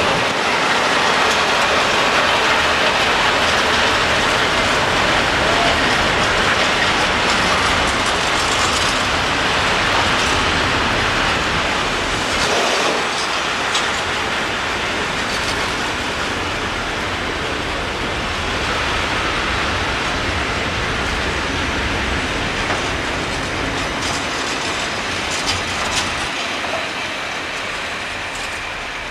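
Hopper wagons of a track-maintenance ballast train rolling past close by, wheels clattering and rumbling over the rails with a few sharp knocks. The sound fades slowly as the train draws away.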